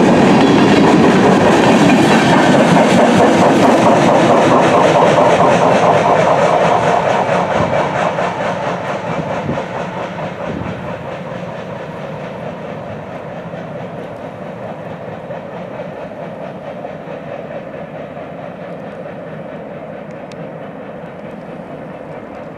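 Covered hopper cars of a freight train rolling past close by, their wheels clacking over the rail joints. From about six seconds in the sound fades as the end of the train moves away.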